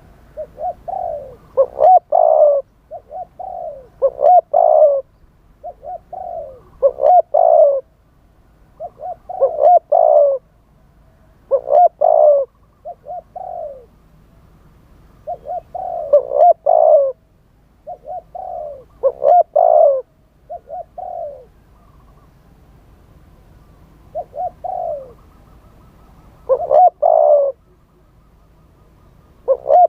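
Spotted dove cooing over and over, in phrases of several soft rising and falling coos about every two seconds. This is the wild-type call used to draw in wild doves.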